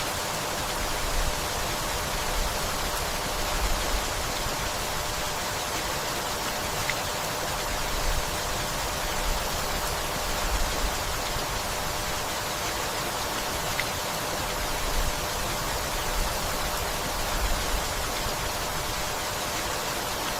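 Steady rainfall, an even hiss with a low rumble underneath that swells and fades every few seconds.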